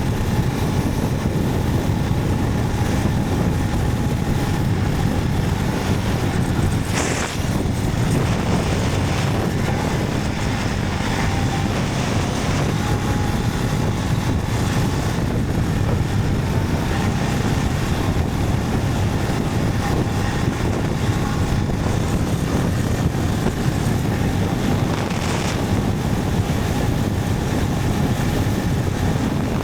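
Motorcycle riding at a steady pace, its engine's drone mixed with wind buffeting the helmet or camera microphone.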